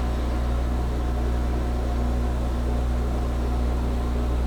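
Steady low hum of a machine-shop motor running, with a faint constant tone above it.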